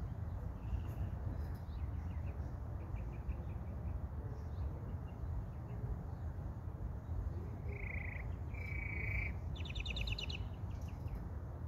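Small songbirds chirping, with a few short calls and then a quick bright trill about ten seconds in, over a steady low background rumble.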